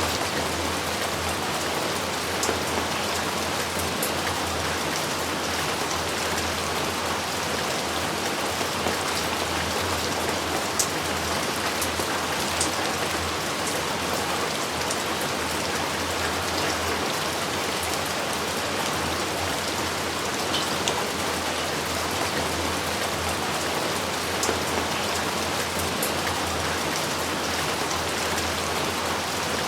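Steady heavy rain falling, an even hiss with scattered sharp drop hits and no thunder.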